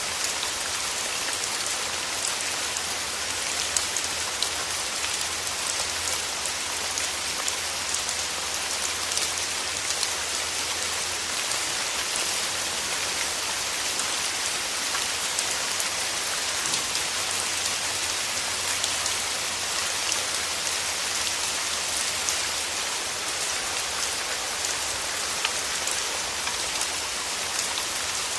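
Steady rain falling on a surface, an even hiss made up of many small drop patters.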